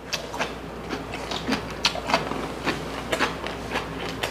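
Close-miked chewing: irregular wet mouth smacks and clicks, several a second, as two people eat, over a faint steady low hum.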